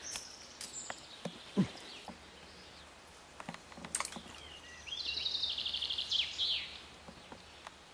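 A small bird singing a rapid trilling phrase of quick repeated high notes, lasting about a second and a half, a little past halfway through. A few sharp clicks or knocks come earlier, the loudest about a second and a half in, over a faint outdoor hush.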